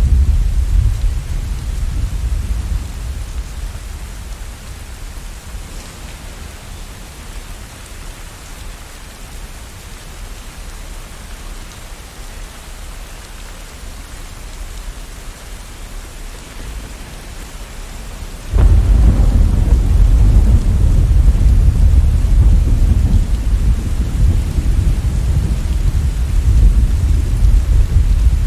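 Steady rain with thunder: a low rumble fades away over the first few seconds, then about two-thirds of the way through a sudden loud thunderclap breaks into a long, heavy rumble.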